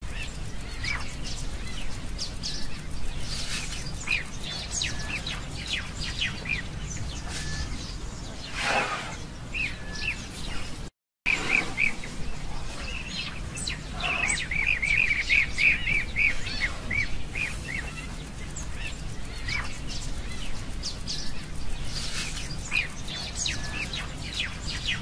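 Several birds chirping and calling over a steady low outdoor rumble. About halfway through, a quick run of repeated chirps. Just before that the sound cuts out for a moment.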